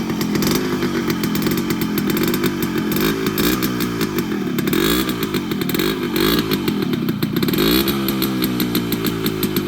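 Yamaha RX100's two-stroke single-cylinder engine being revved over and over, its pitch climbing and dropping again and again.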